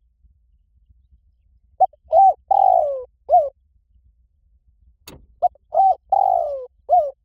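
Spotted dove cooing: two phrases of four notes each, the third note long and falling. The phrases come about three and a half seconds apart, with a sharp click just before the second.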